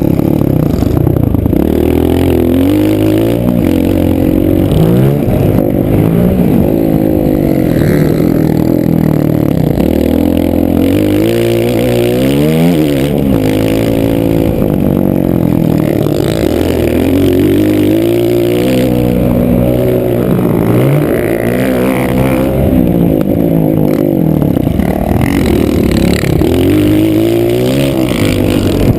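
Motocross bike engine being ridden hard, its pitch climbing under throttle and dropping off again over and over as the rider accelerates, shifts and backs off.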